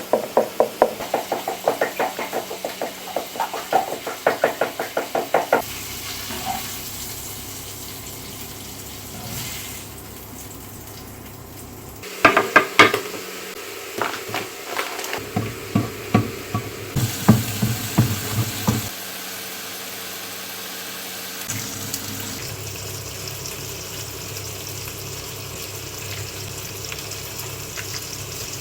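Kitchen work sounds: quick, even tapping at about four strokes a second for the first five seconds, then a run of irregular knocks and clatter a few seconds later. Near the end a steady hiss of running water or sizzling sets in.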